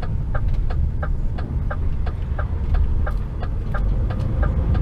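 HGV tractor unit's diesel engine running low and steady, heard from inside the cab, with a regular short, pitched tick about three times a second over it.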